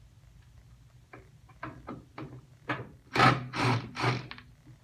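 Handling noises: a run of light clicks and knocks, then three louder rasping scrapes in quick succession about three seconds in.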